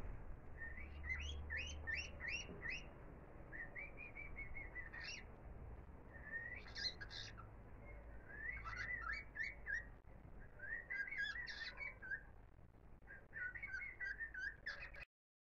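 A songbird singing in short phrases of quick rising chirps and warbles, with brief pauses between phrases; the song stops abruptly near the end.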